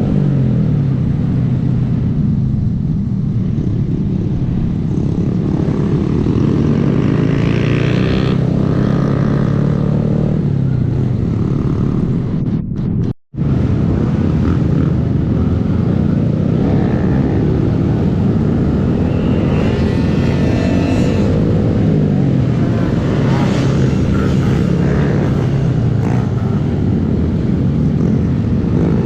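Small Honda 125cc single-cylinder motorcycle engine running under way, its pitch rising as it accelerates and falling as it eases off, more than once, over steady wind and road noise. The sound cuts out completely for a moment about halfway through.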